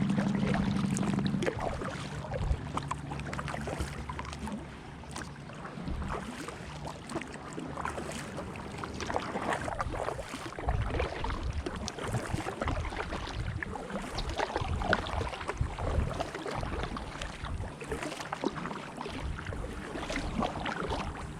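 Kayak paddle strokes dipping and splashing in calm water, irregular swishes of water against the paddle and hull. A brief steady low hum sits in the first second or so.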